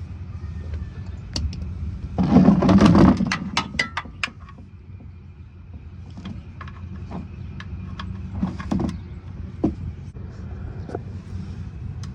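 Tool handling under the car at the oil drain plug: a loud scraping rustle about two seconds in, then a run of sharp metallic clicks, and a few more knocks later, over a steady low hum.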